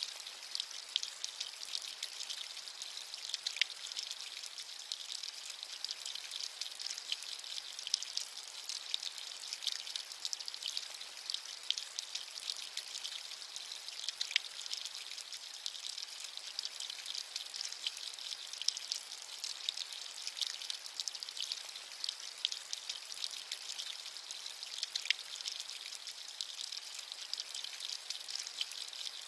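Steady rain with many small, close drops pattering, a light high-pitched hiss with crackly ticks.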